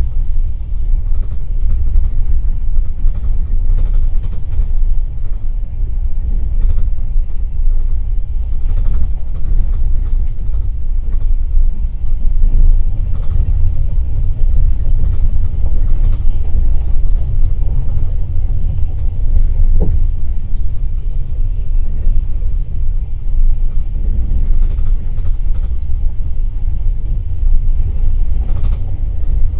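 Passenger train running along the line, heard from a passenger car: a loud, steady low rumble of wheels on rails, with occasional faint knocks and a brief squeak about twenty seconds in.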